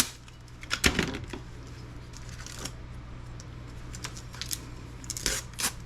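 Small hard laptop parts being handled and set down on a work surface: a few scattered clicks and taps, the loudest about a second in, over a steady low hum.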